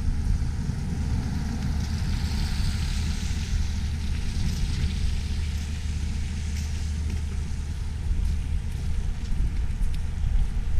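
Steady city traffic noise, with wind buffeting the microphone as a rough low rumble; a vehicle's hiss swells and fades a couple of seconds in.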